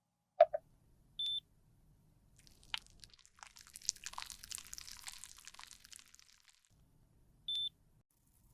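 Two short, high electronic beeps about six seconds apart. Between them come a sharp click and a few seconds of crackly scraping or crushing, typical of handling makeup in a repair.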